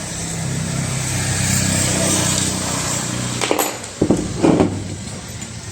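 Small electric churner (mathani) motor running with a steady hum and whir. A few sharp knocks come about three and a half to four and a half seconds in.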